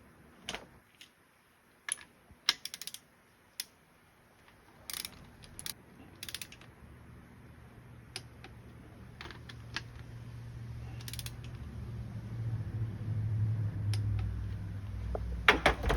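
Scattered metallic clicks and clinks of hand tools working on the engine's connecting rods, a few in quick ratchet-like runs. A low hum builds through the second half, and a cluster of louder clicks comes near the end.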